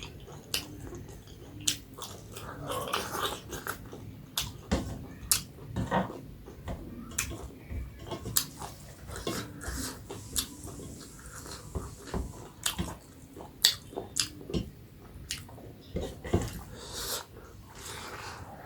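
A person chewing and biting food close to the microphone, with irregular wet mouth smacks and clicks throughout.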